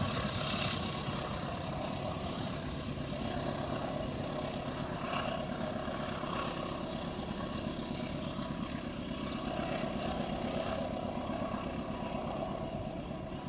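Train rolling past: a steady rumble of wheels on rail that eases slightly toward the end.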